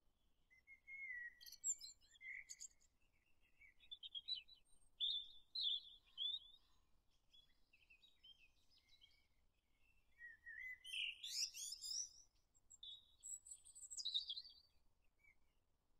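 Birdsong: several short phrases of high, quick chirps and warbles, with pauses between them.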